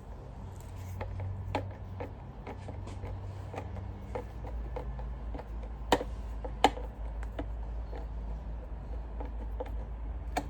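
Scattered small clicks and taps of a screwdriver working Torx screws and handling the plastic of a Dyson cyclone assembly, with two sharper clicks about six seconds in, over a steady low hum.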